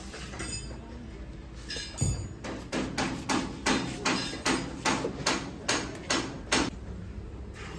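Hammer striking car body sheet metal in a steady run of about a dozen blows, roughly three a second. The blows start about two seconds in and stop near the end.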